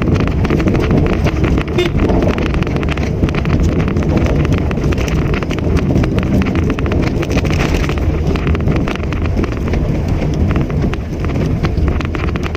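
Mitsubishi Mirage hatchback on the move: steady engine and road noise, with many small rattling clicks and wind on the microphone.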